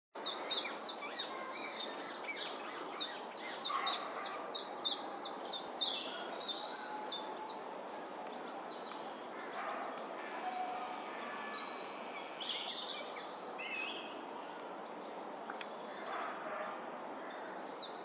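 Birds calling: a fast run of sharp, high, falling notes, about two to three a second, for the first eight seconds, then softer scattered chirps over a steady outdoor hiss.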